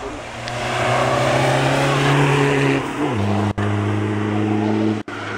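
Alfa Romeo 147 Cup Diesel race car's diesel engine accelerating hard, its pitch rising steadily. About three seconds in, an upshift drops the pitch, and the engine then pulls on at a steady note.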